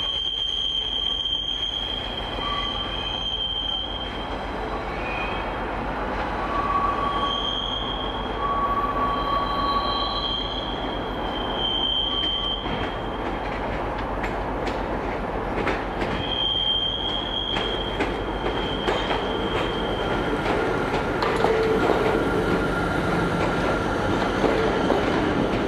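Hitachi Class 800 intercity train arriving slowly over curved track, its wheels squealing in high tones that come and go. Near the end the train rumbles past close by and grows a little louder.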